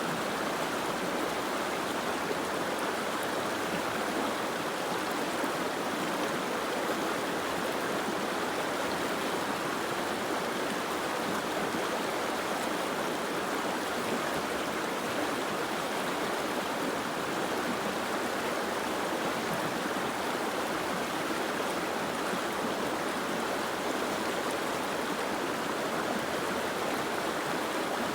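Steady, even rushing of water with no separate drops or splashes standing out.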